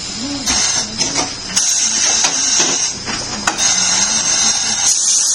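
Tyre-changing work in a shop: compressed air hissing on and off, with sharp clicks and knocks from the tools.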